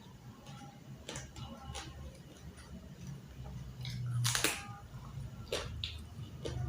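Close-miked eating sounds: chewing with scattered short wet clicks and crunches, the loudest a longer crunch about four seconds in.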